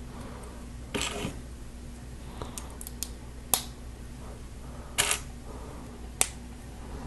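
Plastic LEGO pieces clicking and clattering as they are handled and pressed together: a handful of sharp clicks and two short rattling clatters, over a faint steady hum.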